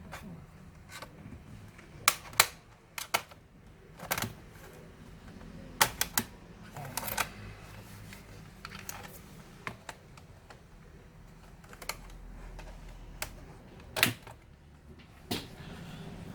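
Irregular sharp clicks and taps of the ASUS X453M laptop's plastic case parts being handled and pried apart, about a dozen over the stretch, the loudest a few seconds in and near the end.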